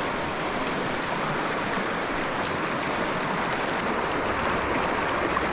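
Mountain creek current rushing steadily, a loud, even wash of moving water.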